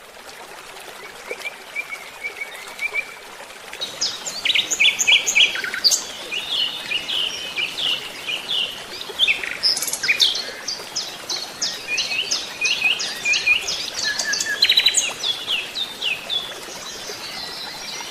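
Small songbirds chirping and singing: many short high calls and rapid trills overlap over a faint steady hiss. The calls are faint at first and grow busier about four seconds in.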